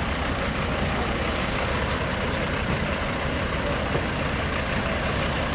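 Semi truck's diesel engine running steadily with a dense low rumble.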